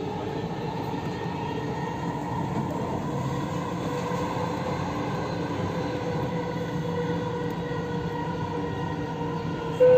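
Dubai Metro train running at speed, heard from inside the carriage: a steady rumble with a faint steady whine. A loud chime starts at the very end, the signal ahead of the next-station announcement.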